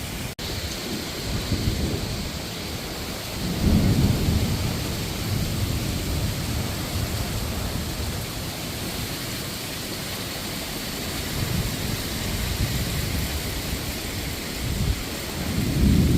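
Heavy rain during a thunderstorm, a steady hiss, with low rumbling swells about four seconds in and again near the end.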